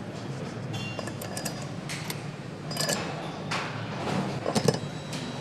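Factory assembly-line sounds: a steady background hum with irregular metallic clinks, clicks and knocks from parts and tools, the sharpest knock about four and a half seconds in.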